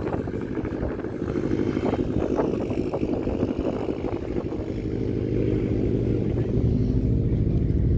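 A car engine running with a low, rumbling exhaust, growing louder about five seconds in.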